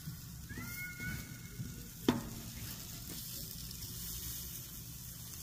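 Smoked sausage, peppers and onions sizzling on the griddle of a George Foreman camp tailgater grill as a steady hiss, with one sharp clack about two seconds in.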